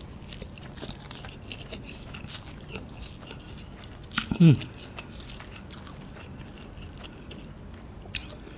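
Close-miked chewing of a mouthful of cooked instant noodles, with many small wet mouth clicks and smacks. A short vocal 'mm' grunt falling in pitch comes about four and a half seconds in.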